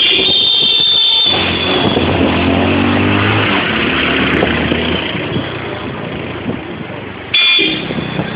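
Motorcycle engine running on the move, with road and wind noise; the engine sound is strongest early on and grows weaker over the last few seconds. Music carries over for about the first second, and a short high-pitched tone sounds near the end.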